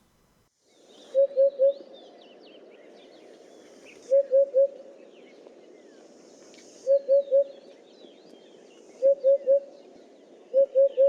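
Eurasian hoopoe calling its low 'oop-oop-oop': five phrases of three quick notes, one phrase every two to three seconds, the last near the end. Faint high chirps sound behind it.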